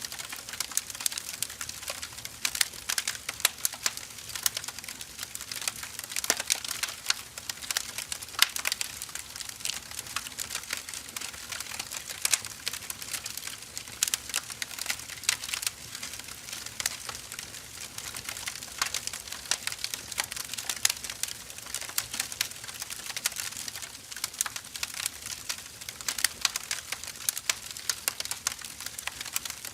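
Wood fire crackling and popping: dense, irregular sharp snaps from burning firewood logs over a soft steady hiss.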